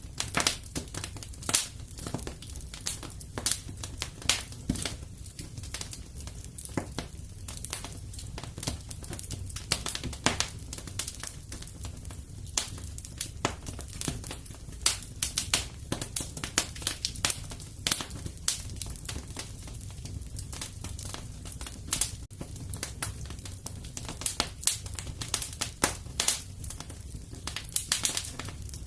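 Wood fire burning in a fireplace, crackling with frequent irregular sharp pops over a steady low sound of the flames.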